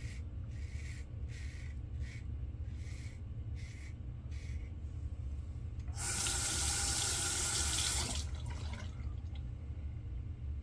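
Bathroom sink tap running for about two seconds in the second half. Before it comes a run of short, evenly spaced scratchy strokes, about one every 0.6 s, over a steady low hum.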